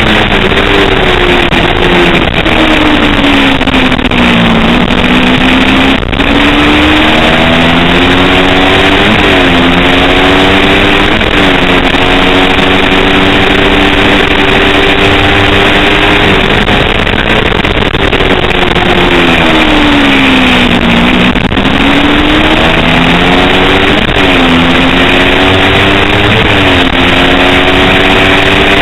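Kawasaki Ninja 250 parallel-twin race engine at high revs under heavy wind rush. The revs fall twice while braking for corners, and between the falls they climb in steps with short dips as it shifts up through the gears.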